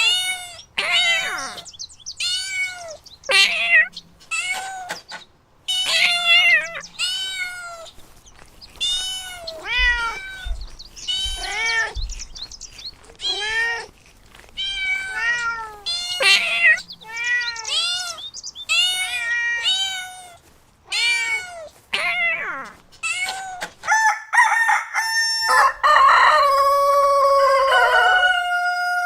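Cat meowing over and over, short arching calls about one a second. Near the end a rooster crows, one long call.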